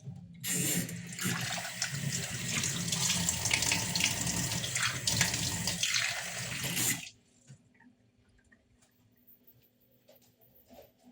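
Water running from a tap into a sink for about six and a half seconds, starting abruptly and cutting off sharply as the tap is turned off.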